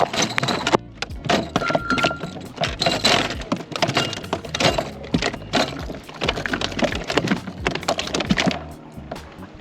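Rapid, irregular knocks, thumps and rattles from a freshly landed speckled trout thrashing against the plastic kayak and gear while being handled. The clatter stops near the end.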